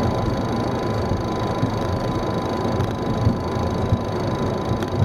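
Boeing 737 rolling on the ground after landing, heard from inside: a steady rumble of the engines and airflow, a thin steady whine, and a few soft bumps from the landing gear.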